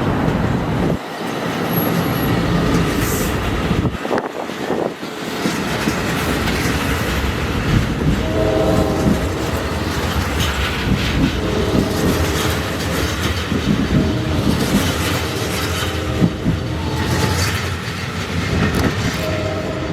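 NJ Transit commuter train passing close by, with a steady rumble and wheels clacking over the rail joints. The horn sounds in several blasts from about eight seconds in.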